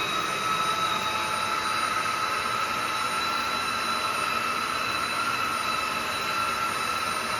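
AGARO cordless wet-and-dry floor vacuum running steadily, its motor giving an even high-pitched whine made of several steady tones over a rush of air.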